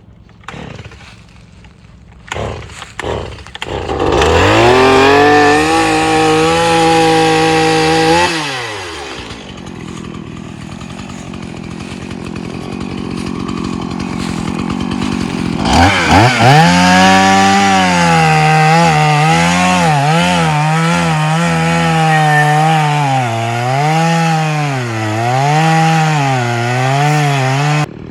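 Chainsaw cutting a tree root. It revs up about four seconds in, runs high for a few seconds and drops back, then about sixteen seconds in it revs again and keeps running until just before the end, its pitch dipping and recovering over and over as the chain loads up in the cut.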